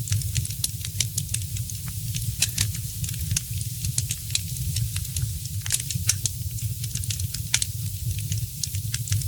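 Fireplace fire crackling: many sharp pops and snaps, several a second and irregular, over a steady low rumble.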